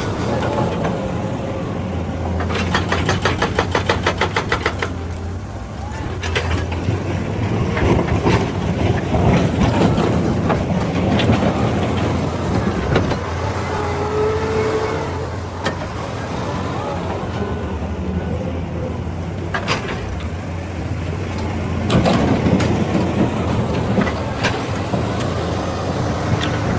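Excavator's diesel engine running steadily under work, with a fast, even rattle a few seconds in and scattered knocks and scrapes.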